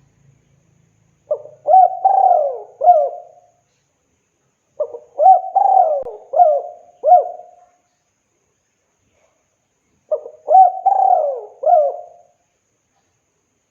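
Male spotted dove (tekukur) calling, as a male does to a female: three cooing phrases a few seconds apart, each a quick run of several rising-and-falling coos.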